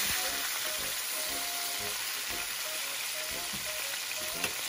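Salmon steaks sizzling steadily as they fry in oil in a nonstick pan, with one short sharp tick near the end.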